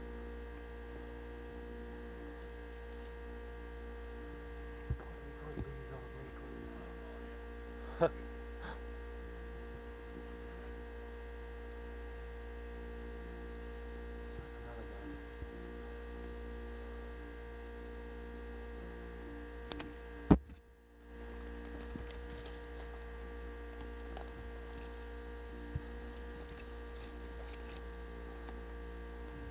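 Steady electrical hum made of many fixed tones over a low drone, broken by a handful of sharp clicks. The loudest click comes about two-thirds of the way through and is followed by a brief dropout.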